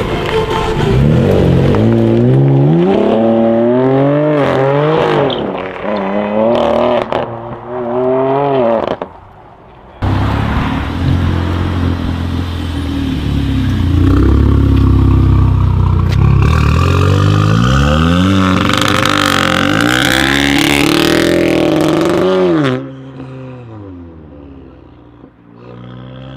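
Car engines revving hard and accelerating through the gears, the pitch climbing and dropping back with each shift, in several abrupt cuts: a steady loud drone in the middle, another hard run near the end, then a quieter engine.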